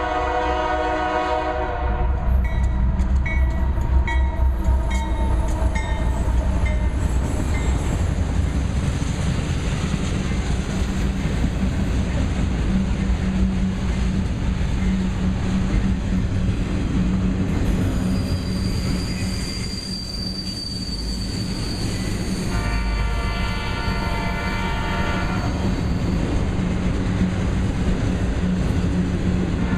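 Union Pacific GE AC4400CW-led freight train of auto racks passing: a locomotive horn chord sounds briefly at the start, then a steady rumble of wheels on rail with evenly spaced wheel clicks over rail joints. A high wheel squeal comes near the middle, and the horn sounds again about two thirds of the way through and near the end.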